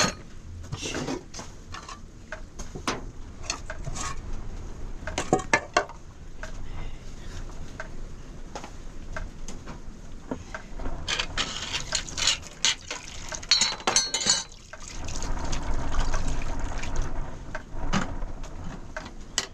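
Water pouring and splashing, with scattered knocks and clatter of vessels or dishes.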